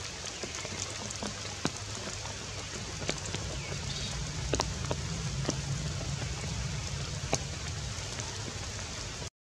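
Steady rain falling, with sharp single drop taps now and then, about one a second. The sound cuts out for a moment near the end.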